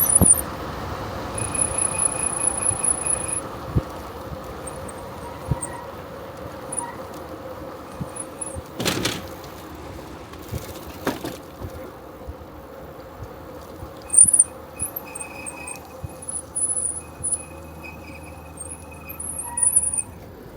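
Bicycle riding along, with steady rolling noise from the tyres and bike, two sharp knocks around the middle, and thin high-pitched squeaks: one held stretch early on, broken chirps near the end.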